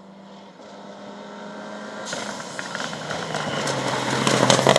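Rally car approaching at speed, its engine note growing steadily louder. From about halfway in, a rising rush of tyre and gravel noise joins it.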